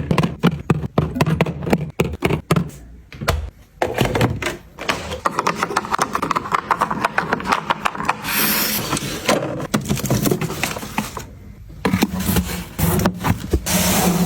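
Groceries and packaging being handled: a quick run of clicks and knocks, then a burst of rustling about eight seconds in and another near the end.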